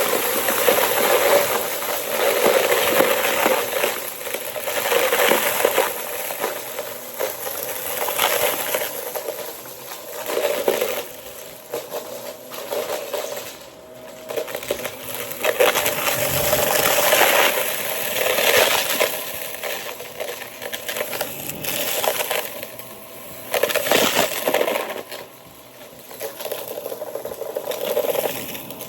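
Shark vacuum cleaner running, with crackling and clinking as small hard debris is sucked up. The sound swells and falls every few seconds with each pass.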